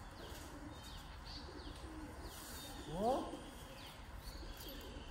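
Small birds chirping faintly and repeatedly, short falling chirps over a quiet background, with one brief rising call about three seconds in.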